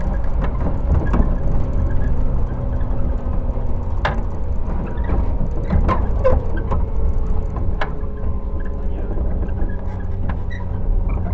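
Cabin running sound of a JR 115 series electric train in its MoHa 114 motor car: a steady rumble of wheels on rail under a faint hum from the MT54 traction motors. A few sharp clicks and knocks come through the rumble.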